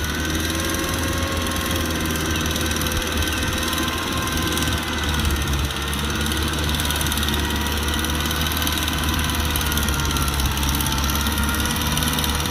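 Kubota tractor's diesel engine running steadily, with a higher whine that wavers slightly in pitch over the low engine hum.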